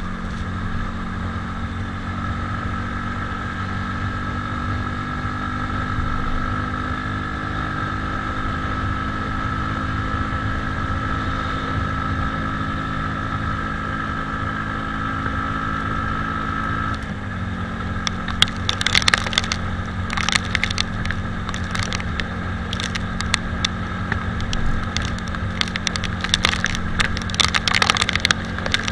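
Italika 250Z motorcycle engine running at a steady cruise, its note dropping suddenly about two-thirds of the way through. Sharp crackling ticks then come in irregularly over the engine sound until the end.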